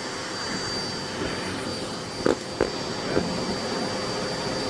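Miele Blizzard CX1 bagless cylinder vacuum cleaner running steadily with a whine over a rushing hiss as its hard-floor tool is worked over the floor. Two sharp knocks a little past two seconds in, as the floor head bumps against something.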